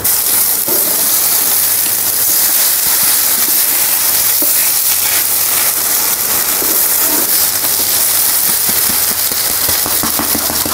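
Spicy stir-fried webfoot octopus and pork belly sizzling loudly and steadily in a hot pan as its sauce cooks down and the moisture steams off.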